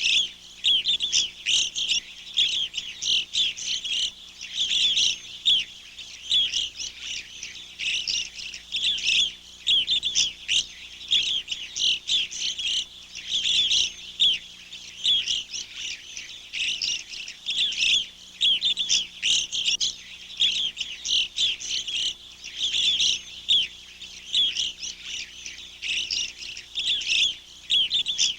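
A chorus of small songbirds chirping continuously, many short overlapping chirps with no pause.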